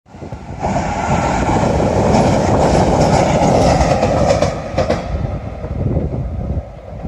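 A train running on the tracks: a steady rail noise that swells about a second in and dies down after about five seconds.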